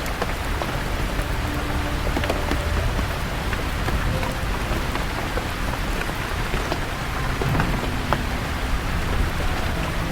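Steady rain falling on forest leaves, with many small drops ticking individually. A low steady rumble runs underneath.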